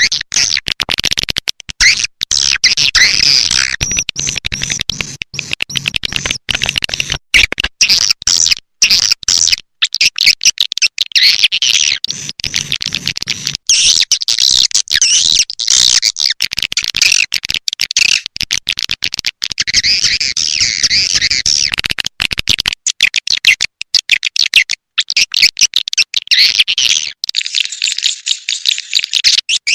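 Swiftlet lure call: dense, high-pitched twittering and chirping of swiftlets, played as a loud edited loop that breaks off in many abrupt short gaps.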